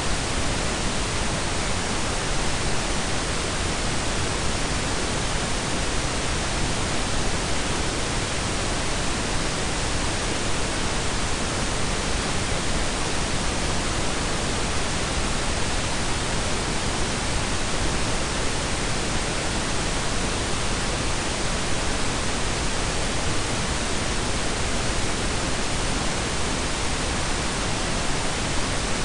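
Steady synthetic blend of pink and brown noise: an even, unchanging hiss with a deep low rumble underneath.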